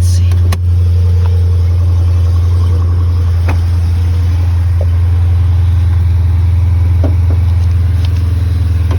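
Car engine idling steadily on a cold start after a remote start, a loud, even low-pitched rumble with a few faint clicks over it.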